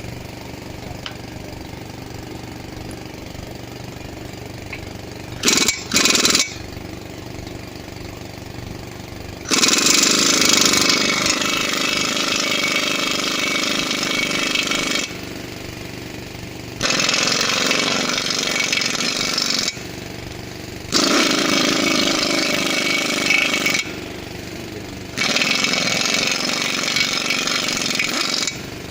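Impact wrench hammering off the wheel bolts of a center-pivot irrigation tower's tire: two quick blips, then four loud runs of a few seconds each. Under it an engine runs steadily.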